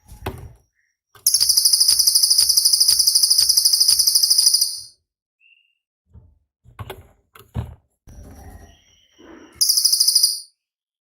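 Cililin bird song: a loud, very high, fast-pulsed trill lasting about three and a half seconds, with softer chips and a few low knocks after it. A second, shorter trill comes near the end.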